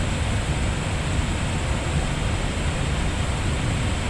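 Steady airflow and engine rumble on the flight deck of an Airbus A320neo in flight, an even hiss over a low rumble with a faint high whine.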